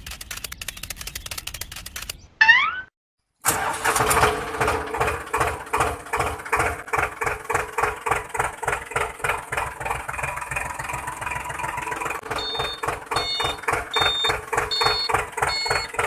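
Homemade mini tractor's small motor running: a fast whirring clatter at first, then, after a short break, a steady chugging pulse about two to three beats a second. Short high beeps join the chugging near the end.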